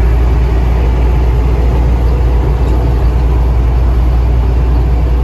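Semi truck driving at road speed, heard from inside the cab: a loud, steady low drone of engine and road noise.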